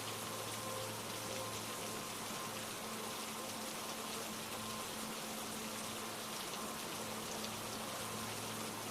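Steady rainfall, an even hiss of many drops. Beneath it sit a few faint held low notes of a soft ambient music pad, one of which drops out about two seconds in.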